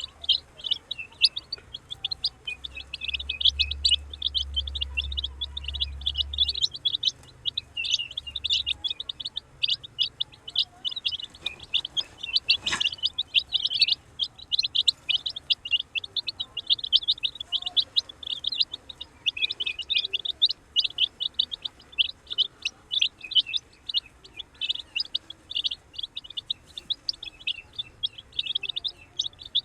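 A group of baby chicks peeping continuously, many short high chirps overlapping, with a single click about halfway through.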